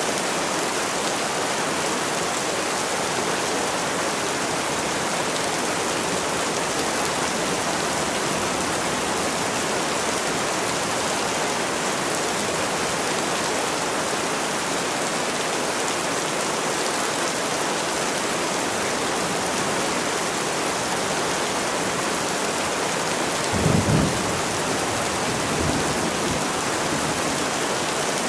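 Steady, heavy rain falling in an even hiss. Near the end comes a brief low rumble lasting about a second, the loudest moment, followed shortly by a fainter one.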